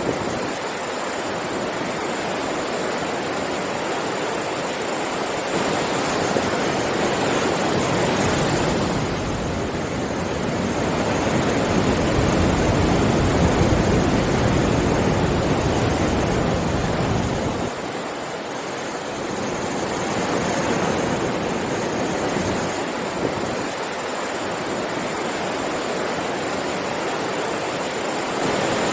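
Sea waves breaking on a beach: a continuous rush of surf that slowly swells and eases, fullest around the middle and dropping back briefly near the end.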